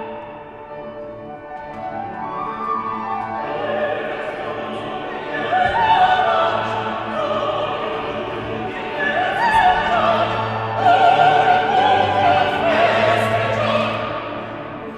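Operatic singing with wide vibrato over classical accompaniment, the voice swelling into long sustained high notes in the second half.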